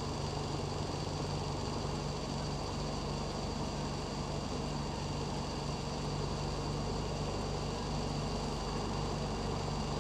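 Toyota 2NZ four-cylinder engine in a 2008 Vios idling steadily. It is misfiring, which the mechanic traces to ignition coil number 1.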